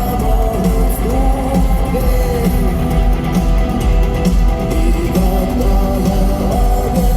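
Rock band playing live in an arena, with guitars, a heavy bass line and a melodic vocal line over it.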